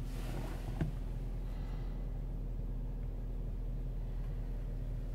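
2014 Mercedes-Benz E350's 3.5-litre V6 idling in Park, a steady low hum heard from inside the cabin, with one short click about a second in.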